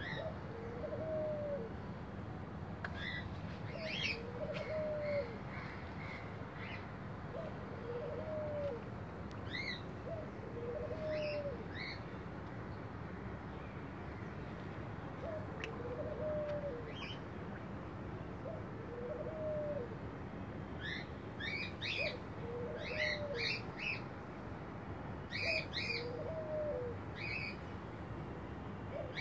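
Birds calling: a short, low call repeated about every two seconds, with higher chirps from small birds coming in groups, busiest in the last third. Underneath is a steady low background noise.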